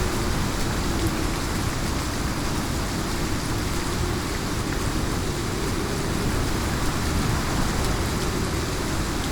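Heavy rain falling, a steady, even rush of noise with no breaks or thunderclaps.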